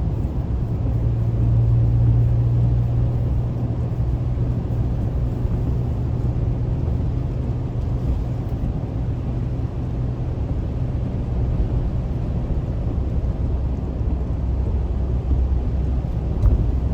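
Car driving at road speed, heard from inside the cabin: a steady low drone of engine and tyres on the road, a little louder a second or two in, with a single soft knock near the end.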